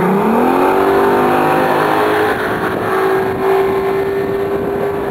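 Yamaha 200 hp outboard motor revving up as the boat takes off, its pitch climbing over about the first second and then holding steady at high speed, with water rushing and wind noise beneath it.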